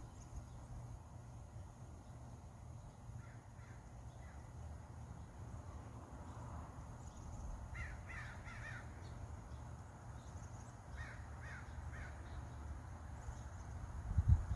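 A bird giving short, harsh cawing calls in groups: a few faint ones, then a burst of about four, then two or three more, over a steady low rumble.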